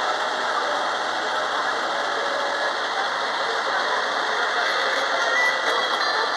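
Steady running noise of a park ride train rolling along its track, an even rush with no clear tones.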